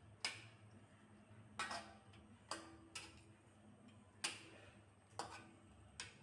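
A kitchen utensil knocking against cookware: seven irregularly spaced light clicks and knocks, several followed by a short ring.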